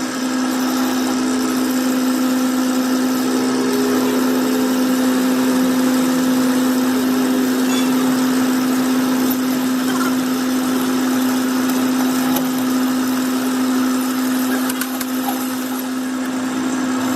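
A workshop machine running steadily with a constant, even hum and a rushing noise over it.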